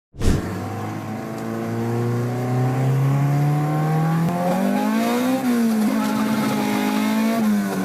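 Car engine accelerating hard at high revs, its pitch climbing steadily for about five seconds as it is pushed toward redline, then dipping slightly and holding high.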